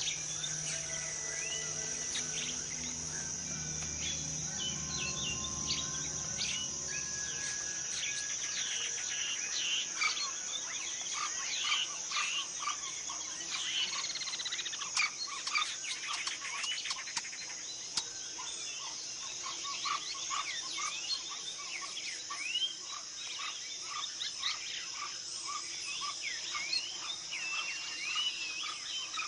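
Tropical rainforest ambience: a steady high insect drone with many bird whistles and chirps over it, busiest from about eight seconds in. A low hum underneath fades out in the first few seconds.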